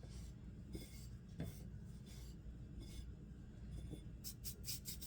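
Soft rubbing and scratching of chicken pieces being dredged in flour on a plate, with a quick run of brushing strokes near the end.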